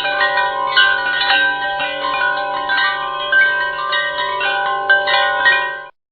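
Background music of bell-like chiming notes, struck one after another and ringing on over each other; it cuts off suddenly near the end.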